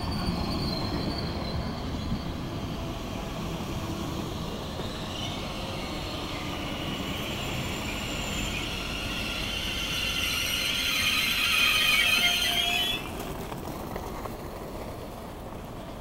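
SNCF TER electric multiple unit Z 27311 braking into a station. A rumble of wheels on the rails gives way to a high squeal that grows louder and stops suddenly about 13 seconds in, as the train comes to a standstill.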